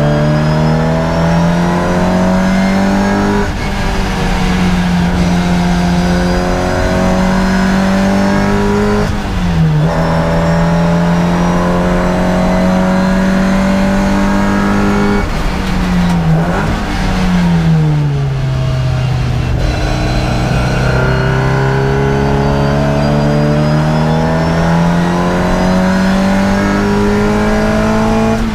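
Onboard sound of a racing car's engine running hard around a circuit, its pitch holding steady for long stretches, dipping briefly about nine seconds in, then falling away around sixteen seconds and climbing slowly back up.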